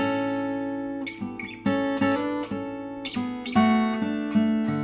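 Bagnasco & Casati OM-23 acoustic guitar, with Pernambuco back and sides and a European spruce top, being played. A chord strummed at the start rings on while a few more notes and chords are picked over it.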